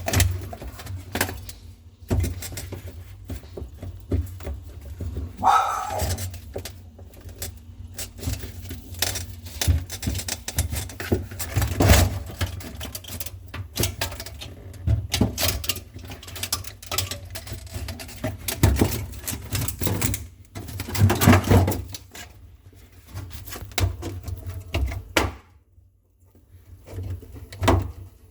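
Irregular clicks, knocks and rattles of hands working on a refrigerator's evaporator fan assembly to remove the motor, with a brief rising squeak about five seconds in.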